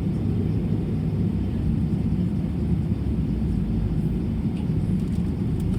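Steady low rumble of an Airbus A320's engines and airflow heard inside the passenger cabin, even and unbroken.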